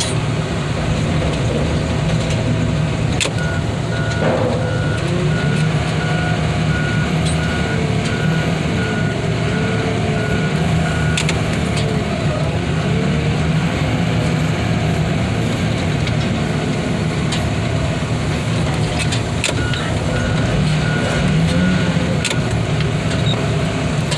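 Heavy diesel equipment running steadily, its backup alarm beeping in two stretches, from about three seconds in to about eleven and again near the end, as the machine reverses; a wavering whine rises and falls over the engine.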